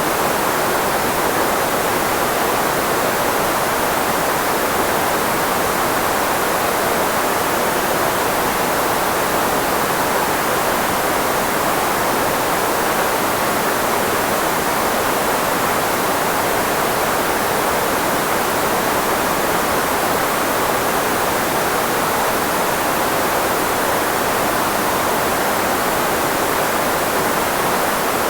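Steady filtered white noise, a generated hiss shaped to mask human speech. It is strongest through the middle range where voices sit and thin in the deep bass, with no change throughout.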